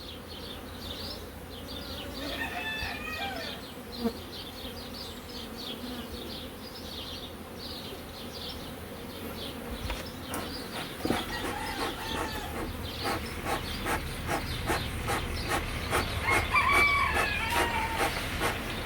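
Honeybees buzzing around an open hive. Two pitched chicken calls stand out, about three seconds in and near the end, and a run of light clicks and knocks sets in about halfway through.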